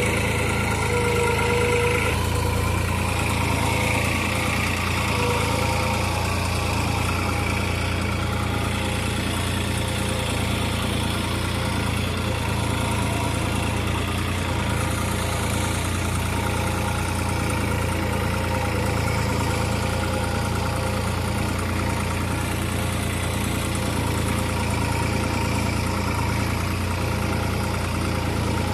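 New Holland 3600-2 tractor's diesel engine running steadily at an even speed.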